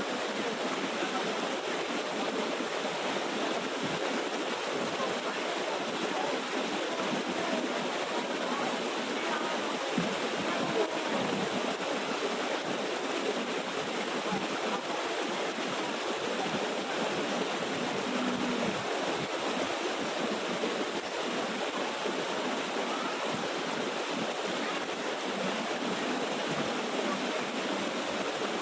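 Water of a small waterfall running over rocks: a steady, even rushing that holds throughout.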